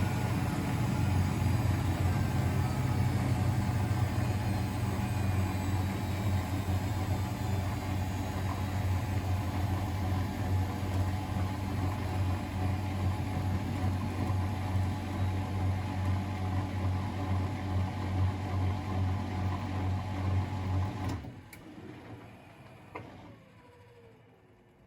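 Miele Novotronic W921 washing machine running with a steady hum. About twenty seconds in, the motor cuts out suddenly, followed by a couple of clicks and a faint falling whir as it runs down.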